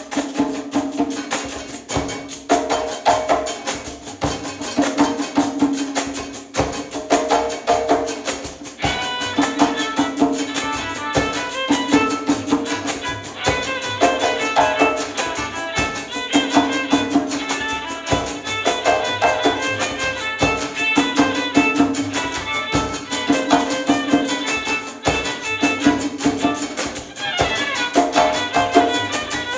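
Live music led by pandeiros, Brazilian frame drums with jingles, struck in a fast, steady rhythm over a held low drone. About nine seconds in, a quick melody of higher notes joins above the drums.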